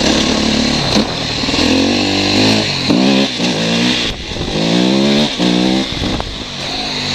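KTM 250 EXC-F's single-cylinder four-stroke engine revving up and backing off over and over, its pitch climbing several times in quick succession.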